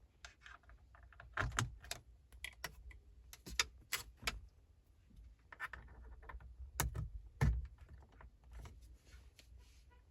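Hands handling small objects: irregular clicks, taps and light knocks, a few of them louder, at about a second and a half in and again around seven seconds.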